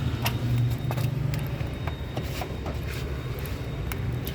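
A steady low engine hum, like a car idling, with a few light scattered clicks and taps of tools.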